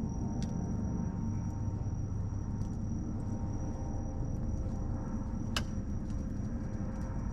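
Wood bonfire crackling with scattered small pops and one sharper snap about five and a half seconds in, over a steady low rumble of distant city traffic and a thin, steady high-pitched tone.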